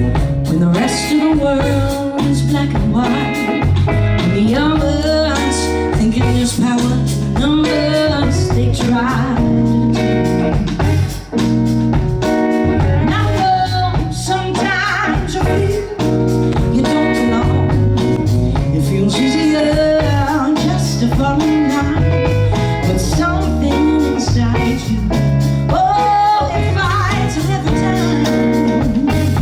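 Blues band playing live: electric guitar, bass and drums under a bending lead melody.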